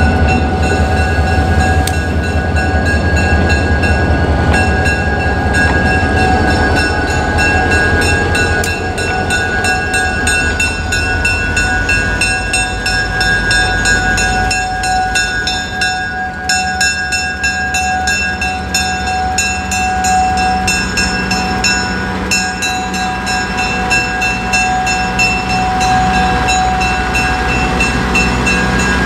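Diesel-hauled passenger train arriving. The locomotive's engine rumble is strong for the first half and eases about halfway through, while steady high-pitched tones carry on throughout.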